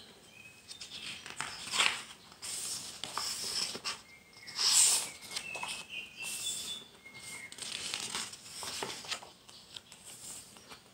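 Paper rustling and crinkling in irregular bursts, with a few short, thin high tones between them.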